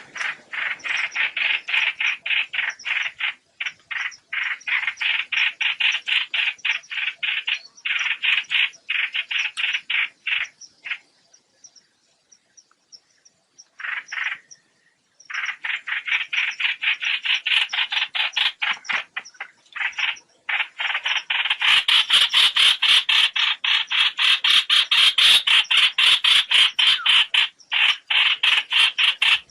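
Trao trảo bird flock call played as a trapping lure: fast, rapid-fire chattering notes, several a second, in long bouts. A pause comes just over a third of the way in, and the calling grows louder and denser over the last third.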